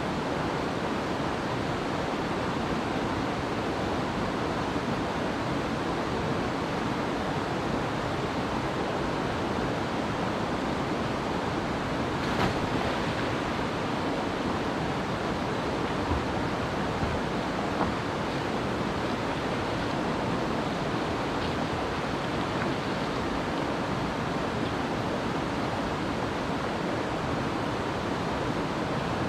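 Steady rush of flowing river water, with a brief sharp knock about twelve seconds in.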